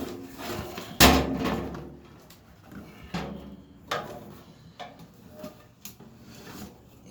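Handling noises as a box is set in place under a part of a pellet grill: one loud knock about a second in, then several lighter knocks and scrapes at irregular intervals.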